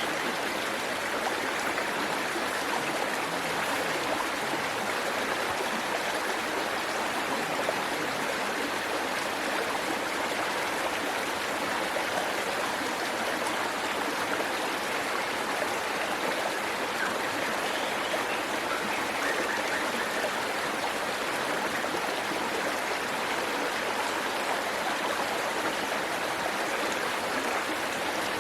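Waterfall and stream water rushing steadily over rocks, an even unbroken splashing.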